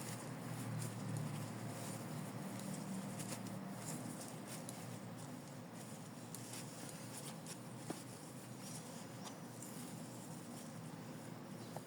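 Soft rustling and scratching of stuffing being worked little by little through a small opening into a felt toy, with a faint click about eight seconds in.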